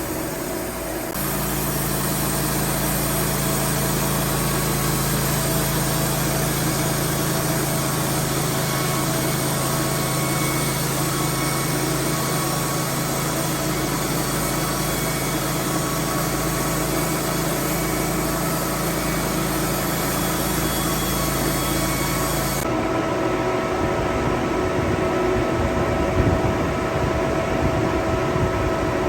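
Woodmizer LT15 portable band sawmill running steadily, its engine and band blade sawing boards from pine logs. The sound changes abruptly near the end.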